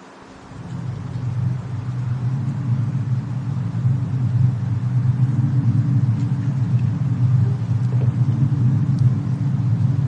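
Fireplace-and-snowstorm ambience: a steady low rumble that fades in over the first second or so, with a few faint crackles later on.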